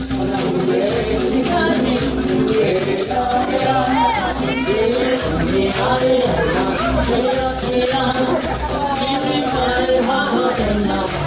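Live Hawaiian music for a hula show: melody lines over a steady low beat, with a rattle shaking throughout.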